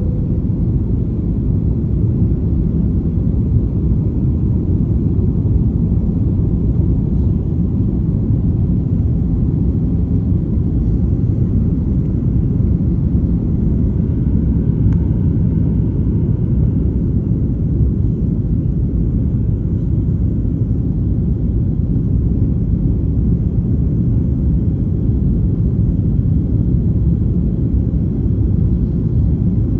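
Airliner cabin noise during takeoff and climb: a steady low rumble of engines and airflow, even throughout.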